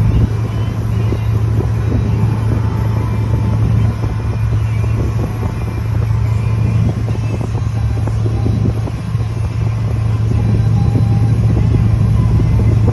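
Steady low drone of a 1986 Corvette's 5.7-litre V8 idling, heard from inside the cabin, with the air conditioning blower pushing cold air out of the dash vent.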